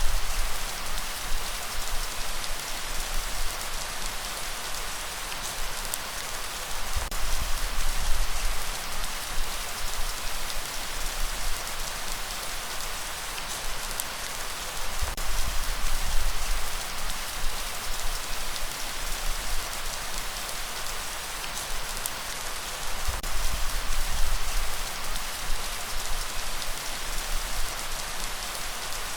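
Steady heavy rain hiss, with low rumbling swells that rise and fall every several seconds underneath it.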